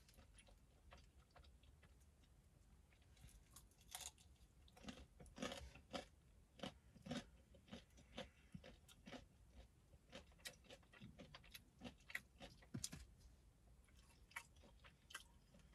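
A person chewing and biting into crunchy food, close to the microphone: faint, irregular crunches and mouth clicks.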